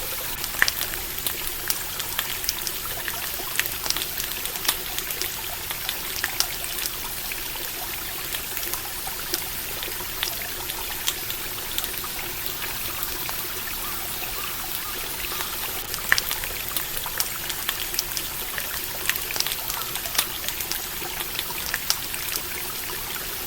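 Campfire crackling with irregular small pops over the steady rush of a flowing stream.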